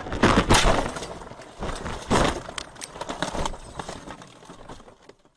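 Car crash: a heavy collision impact with crunching in the first second, a second bang about two seconds in, then clattering and scraping dying away.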